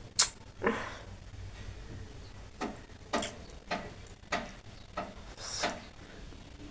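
Close-up mouth and breath noises from a person eating: about eight short, sharp sounds at irregular intervals, the first a crisp click.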